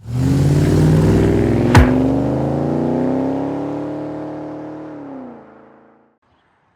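Car engine running at raised revs, slowly climbing in pitch, then dropping and fading away, with one sharp crack about two seconds in.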